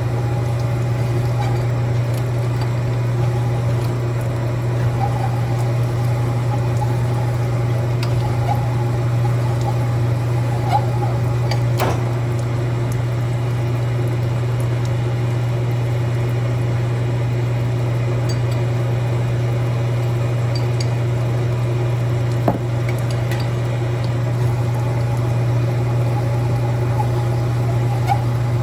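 A steady low machine hum with a few light clicks over it, the clearest about twelve seconds in and again about ten seconds later.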